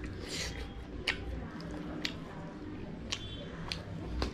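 Someone chewing food, with a sharp click about once a second.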